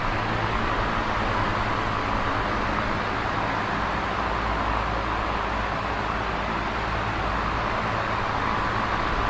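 Electric fan running steadily: an even whooshing noise with a faint low hum from the motor.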